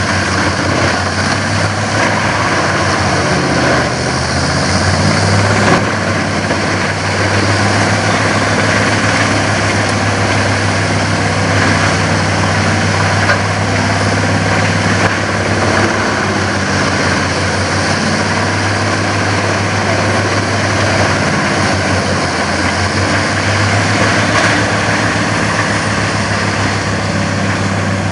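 Dutch Dragon EC10075 VX760 woodchipper running steadily, a loud even machine hum with no rise or fall.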